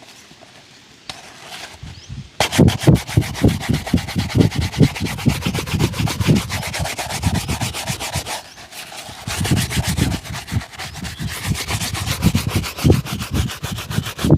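Brisk back-and-forth rubbing on a shoe during a shoe shine, many quick scratchy strokes a second, starting about two seconds in after a quiet moment and pausing briefly midway.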